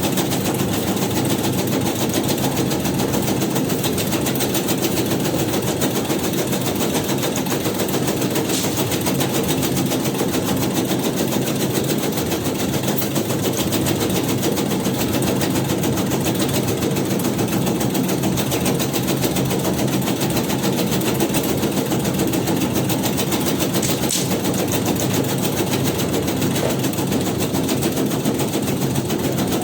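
Tobacco-shredding machine running steadily, its motor droning under a fast, even chatter of repeated strokes.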